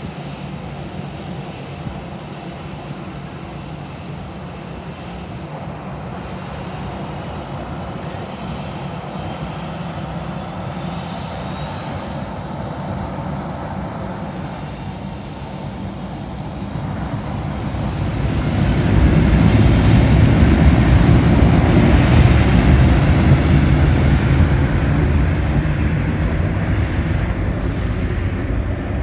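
Aircraft engines passing close: a steady engine hum builds to a loud rush about eighteen seconds in, peaks, then fades slowly as the plane moves away.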